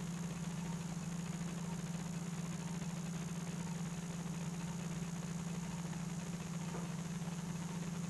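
Steady low machine hum with a faint high whine above it.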